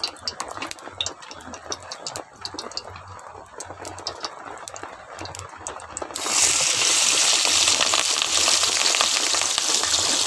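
Soft squelching and small clicks of marinated fish roe being squeezed by hand in a metal bowl, then about six seconds in the roe drops into hot oil in a flat pan and sets off a loud, steady sizzle of frying.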